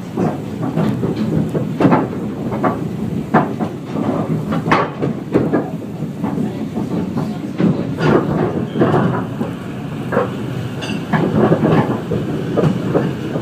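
Narrow-gauge train running along the track: a steady rumble with irregular clacks and knocks of the wheels and carriage.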